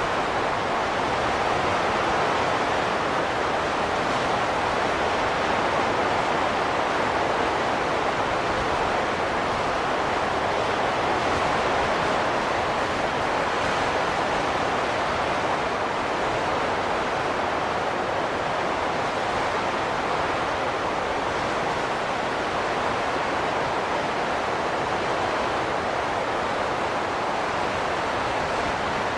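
Steady howling wind, an even rushing noise that swells and eases slowly without gusting sharply.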